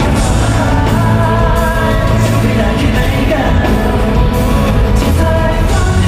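Live pop-rock band performance with a lead vocalist singing over the band, loud and steady through a concert PA system.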